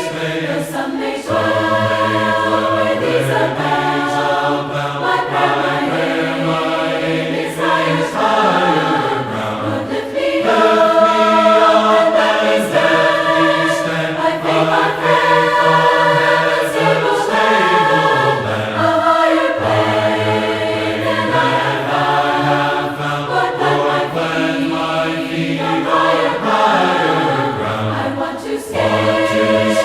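A choir singing a hymn, several voice parts moving together in harmony.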